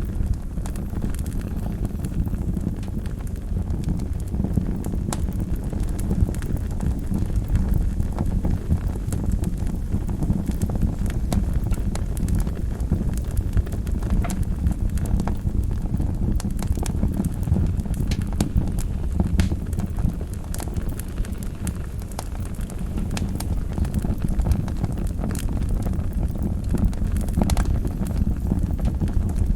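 Wood fire burning in a fireplace: a steady low rumble of the flames with frequent crackles and small pops scattered throughout.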